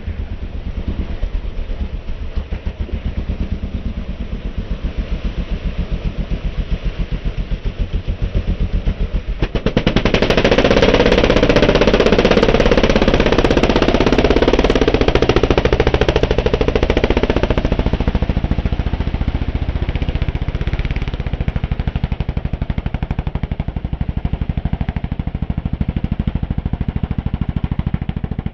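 Racing vehicle engine running close by with a fast, even pulse, growing much louder about ten seconds in as it is pushed hard, then easing back.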